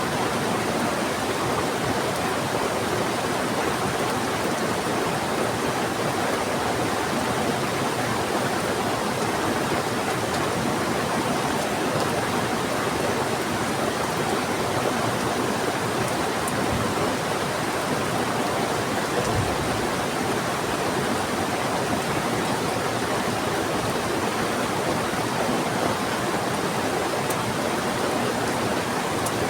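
Heavy rain mixed with the rush of a fast-flowing river: a dense, steady hiss of water that never changes.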